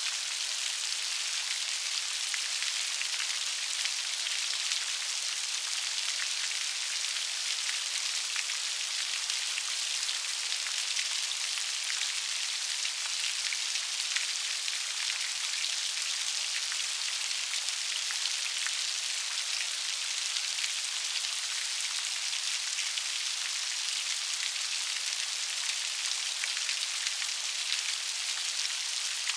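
Steady rain, a dense patter of raindrops with fine individual drop strikes over an even hiss.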